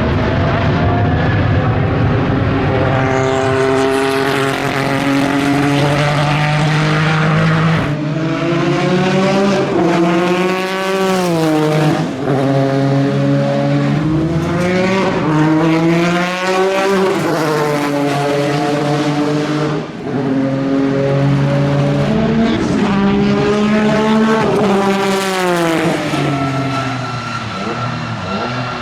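Jaguar XJR-11's 3.5-litre twin-turbocharged V6 racing engine at speed, its revs climbing and dropping again and again through the gears and off the throttle.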